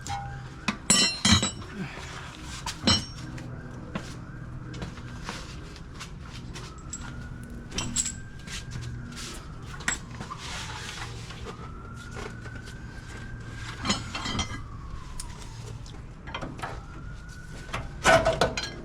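Scattered metallic clanks and clicks of tools and parts being handled during strut replacement work, the loudest near the start and near the end. A faint tone rises and falls slowly in the background.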